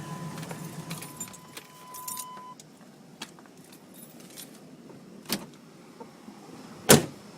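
A pickup's 350 V8 idling, then falling silent about a second in. Keys jingle with a few light clicks, a knock follows, and a truck door is slammed shut near the end. A steady high tone sounds until shortly after the engine stops.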